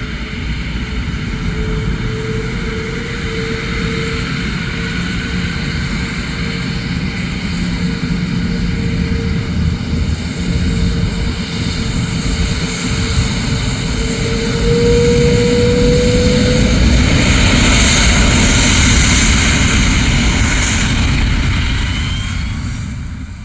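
Jet airliner engines running, a Boeing 777-300's Rolls-Royce engines. A steady engine tone under a broad rush rises slightly in pitch about two-thirds of the way through, as the sound gets louder and hissier. It fades out quickly at the end.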